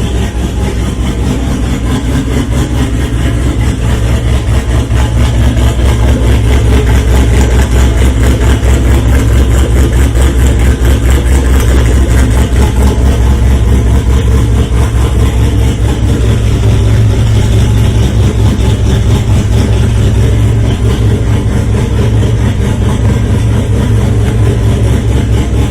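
Turbocharged LQ9 6.0-litre V8 running steadily at idle on a cold start, with a loud, even low pulse. It gets a little louder about five seconds in and then holds.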